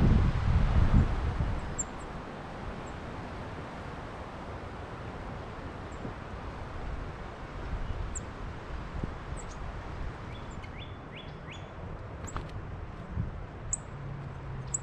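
Wind buffeting the microphone for about the first two seconds, then steady outdoor hiss. Small birds give short, high chirps through the second half, with a quick run of three or four falling notes about eleven seconds in.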